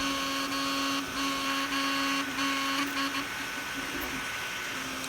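Anycubic Kobra 3 3D printer giving off a loud, horn-like droning tone with overtones. It comes in stretches of about a second with short breaks and dies away a little after three seconds in. It is an abnormal noise that began after a print failure, with everything tight and no cause found by the owner.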